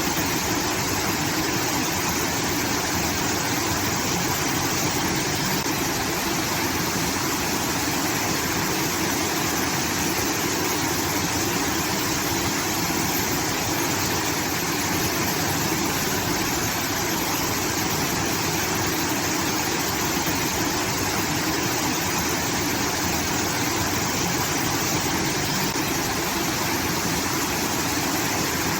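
Water from a rice-field irrigation system pouring steadily, making a continuous waterfall-like rush.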